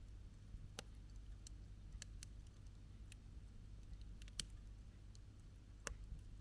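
Wood campfire crackling: scattered sharp pops and snaps at irregular intervals, the loudest a little past the middle, over a low steady rumble.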